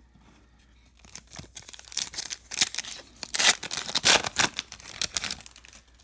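A foil trading-card pack wrapper being torn open and crinkled by hand in a rapid run of rips and rustles, loudest in the middle.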